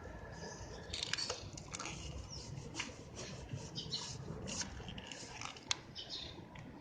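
Stiff brush scrubbing a grimy motorcycle chain wet with cleaning spray: irregular short scratchy strokes.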